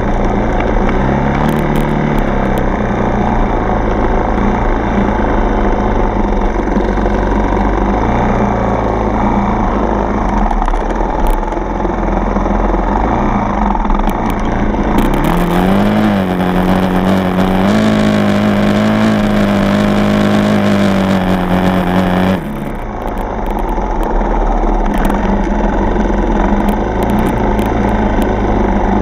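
Dirt bike's single-cylinder four-stroke engine running under way, its pitch rising and falling with the throttle. About halfway through the engine pitch climbs and is held, with a rushing hiss over it, then both drop off abruptly about two-thirds of the way in.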